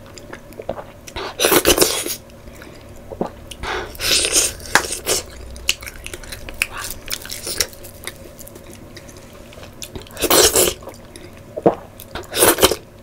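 Close-miked mouth sounds of a person eating by hand: chewing and wet lip smacks, in short loud bursts about two seconds in, around four seconds, and twice near the end.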